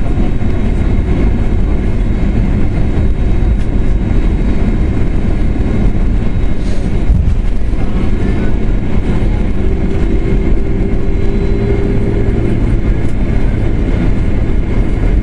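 Steady loud rumble inside an airliner's cabin as it rolls along the ground after landing, engines and wheels together, with a faint steady hum joining in for a few seconds about ten seconds in.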